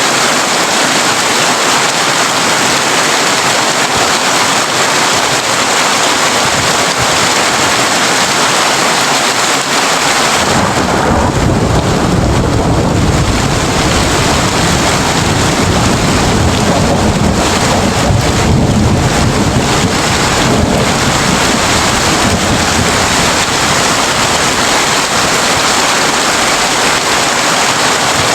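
Heavy rain drumming steadily on a tin roof. About ten seconds in, a long low thunder rumble rolls in and dies away over roughly ten seconds.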